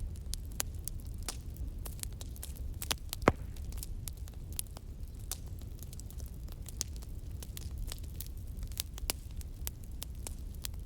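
Wood fire crackling with irregular sharp pops, one much louder pop about three seconds in, over a steady low rumble.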